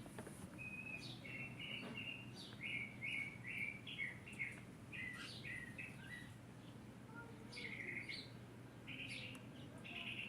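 A bird chirping faintly in quick runs of short high notes, over a faint low steady hum.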